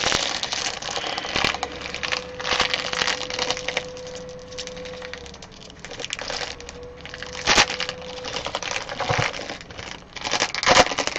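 Trading card packs being handled and opened: foil wrappers crinkling and cards riffled and flicked, with a couple of sharper snaps.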